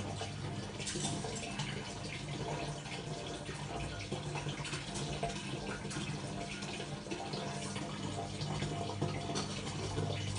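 Water running from a tap with splashing and dripping, over a steady low hum.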